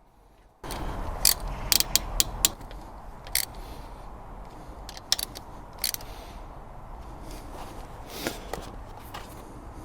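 Metal hand tools clicking and clinking against metal as the oil filter cover plate is refitted and fastened: a quick run of sharp clicks in the first few seconds, then a few scattered ones over a steady hiss.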